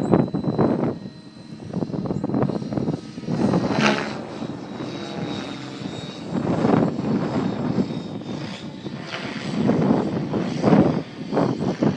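Align T-Rex 700E electric radio-controlled helicopter flying 3D aerobatics: the rotor blades whoosh in loud surges that swell and fade every few seconds, over a faint steady high whine.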